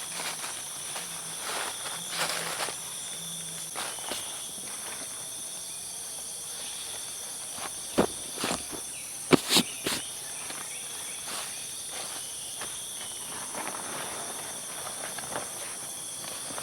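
Steady high-pitched chorus of insects such as crickets. A few sharp knocks or crackles stand out about halfway through, with softer rustling around them.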